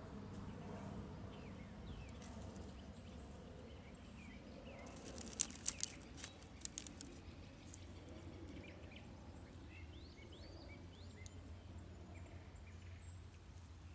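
Small stones clicking against each other several times in quick succession, about five to seven seconds in, as they are set down. Birds chirp faintly now and then over a quiet outdoor hum.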